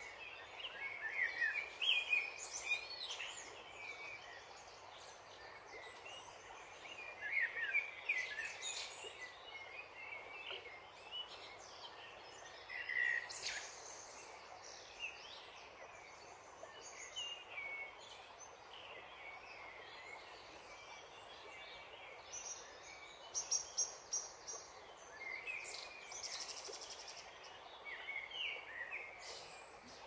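Small birds chirping and twittering in short, scattered bursts of song over the steady rush of a shallow stream.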